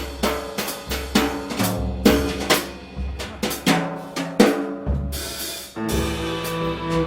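Live jazz band music with the drum kit to the fore: a run of snare, bass drum and cymbal hits over walking bass notes, then the band comes in with held chords about six seconds in.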